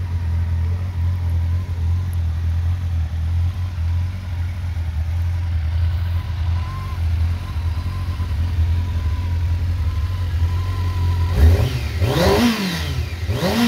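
2000 Honda CBR600's inline-four engine idling steadily, then revved twice briefly near the end, each rev rising and falling back to idle.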